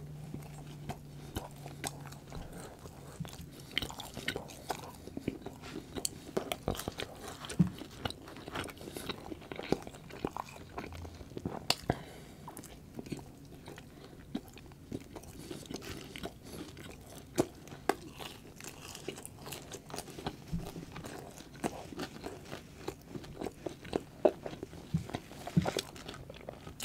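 Close-miked eating sounds: biting and chewing a slider sandwich and fries, with irregular sharp crunches and mouth clicks throughout.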